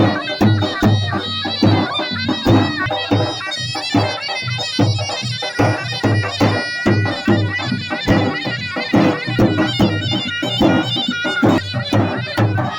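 Kurdish folk dance music: a shrill, droning reed pipe playing a melody over a steady, beating drum.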